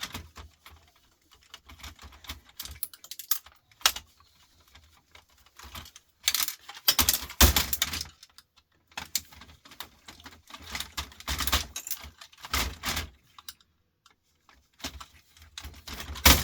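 Irregular clicking and clattering of small plastic and metal parts being handled and pulled apart by hand, with busier spells of rattling about six seconds and ten seconds in.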